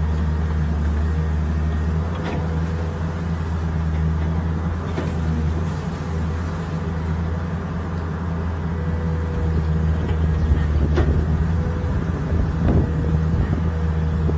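Excavator's diesel engine running steadily with a deep hum, a faint steady whine above it, while the arm lifts a cow out of mud.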